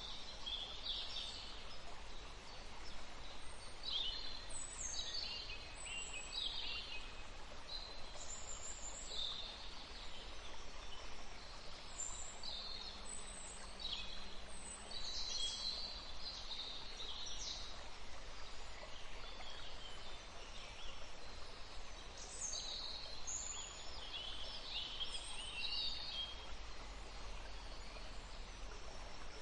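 Forest birds chirping and trilling, many short high calls overlapping throughout, over a faint steady hiss.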